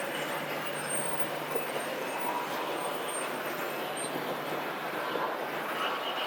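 Steady rumble and hiss of a moving vehicle, most like a train running.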